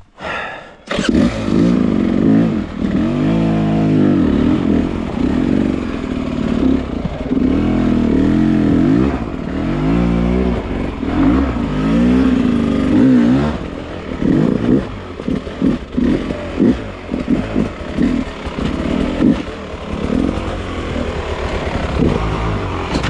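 Dirt bike engine ridden hard over rough terrain. It picks up about a second in and rises and falls in pitch in long surges of throttle, then for the second half comes in short, choppy throttle blips.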